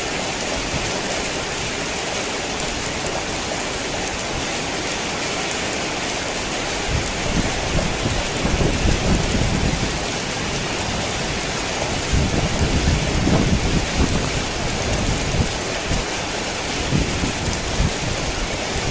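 Heavy rain falling steadily, with low rumbles of thunder swelling up twice, about seven and twelve seconds in, each lasting a few seconds.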